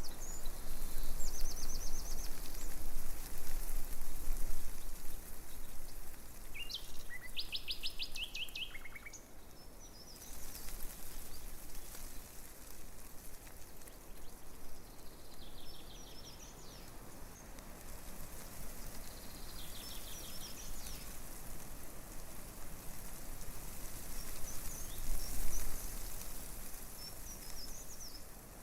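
Breeze rustling through tree leaves in a steady hiss that swells and eases, loudest in the first few seconds. Over it, small songbirds sing short phrases of rapidly repeated notes every few seconds.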